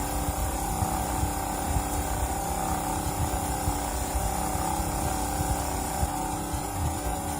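Small electric motor of a homemade disk air washer running steadily: a constant hum with two steady tones over a low, uneven rumble.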